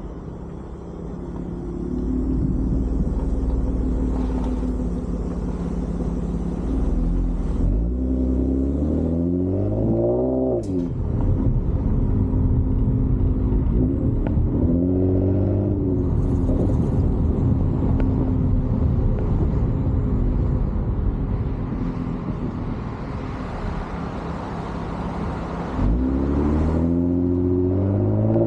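Toyota Camry with an aftermarket exhaust (Borla cat-back or resonator delete) idling, revved three times, the pitch climbing with each rev before falling back to idle.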